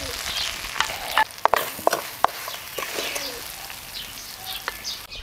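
Silkworm pupae sizzling as they are stir-fried in a wok, with a wooden spatula scraping and knocking against the pan in a quick cluster of strokes. The sizzle thins out in the second half as the pupae are scooped out.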